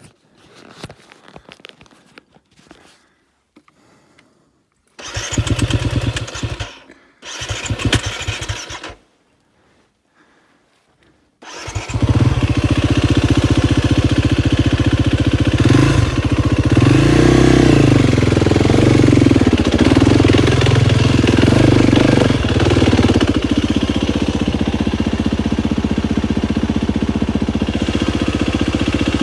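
KTM 250 XCF-W dirt bike's four-stroke single-cylinder engine being started: two short bursts a little over a second apart that die out, then after a pause it catches and keeps running. Revs rise and fall several times, then it settles to a steady run.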